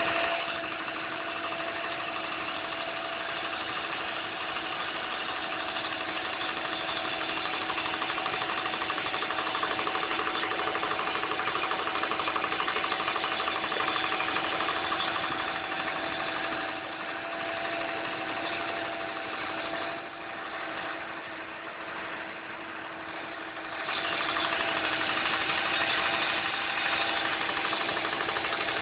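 Car engine running at idle with a rapid, steady ticking, which the owner takes to be the fuel injectors. It is quieter for a few seconds after the middle, then louder again.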